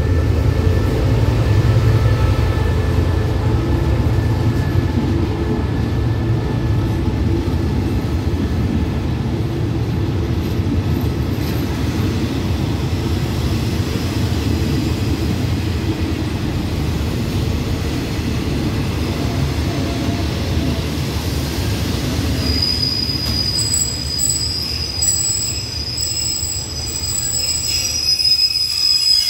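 Passenger train moving along the platform behind an SRT QSY-class diesel-electric locomotive: a loud, steady low rumble. About twenty-two seconds in, a steady high-pitched metallic squeal starts, and a second, higher squeal joins a second later.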